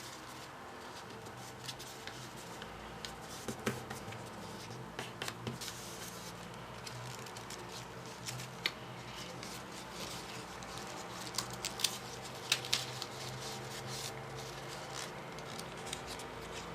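Folded paper origami modules being handled and pushed together, with scattered crisp clicks and light crinkling at an irregular pace.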